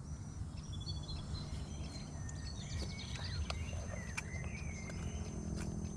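Birds chirping in short rising and falling calls over a steady low outdoor rumble.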